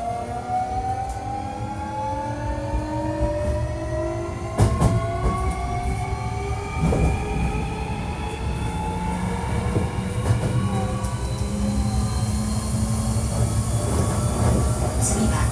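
Hankyu 1300 series electric train's Toyo IGBT-VVVF inverter and traction motors whining, several tones rising steadily in pitch as the train accelerates, over a continuous running rumble. This is the odd-sounding unit. A few sharp knocks from wheels on rail joints come along the way.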